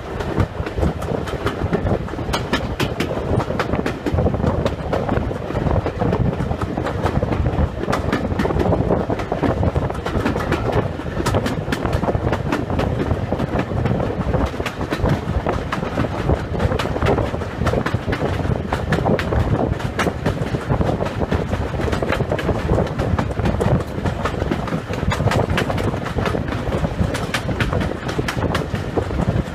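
Steam-hauled passenger train, behind GWR Small Prairie tank engine 5542, running along the line, heard from an open carriage window: a steady rumble of wheels on rail with frequent, irregular clicks.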